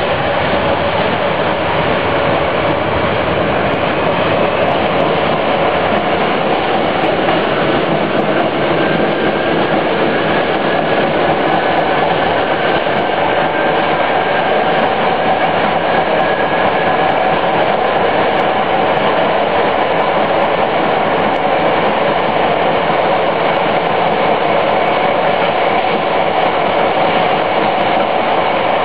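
Fiat Materfer subway car running at speed, heard from on board: a steady, loud rumble of wheels on rail and running gear, with a faint whine that drifts slightly in pitch.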